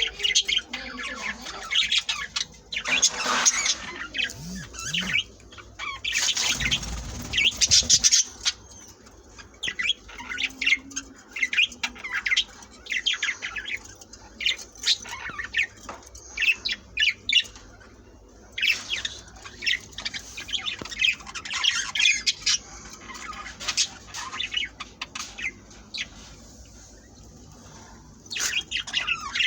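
A flock of budgerigars chirping and squawking in quick, overlapping bursts, with a louder noisy burst lasting about two seconds from around six seconds in.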